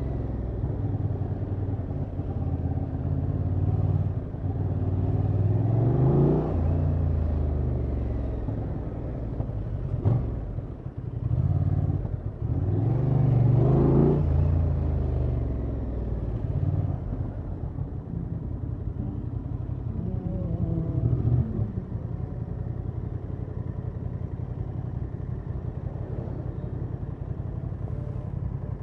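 Honda XL750 Transalp's parallel-twin engine on its stock exhaust, revs climbing and dropping through two pulls with gear changes, then settling to a steady idle for the last third or so.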